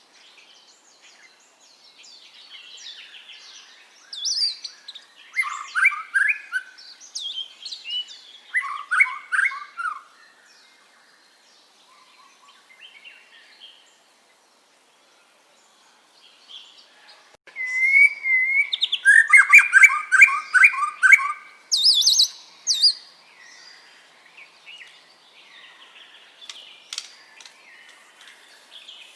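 White-rumped shama (murai batu) singing in varied phrases of rapid repeated notes and pitch glides. A few seconds of near pause fall in the middle, then the loudest run of song, which trails off into softer calls.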